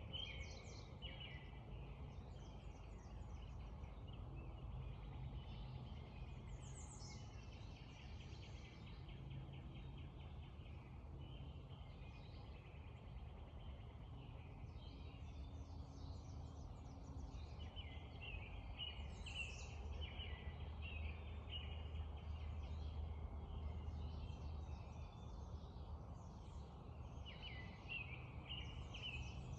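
Several songbirds singing a dawn chorus of repeated chirping phrases and trills, over a steady low background rumble.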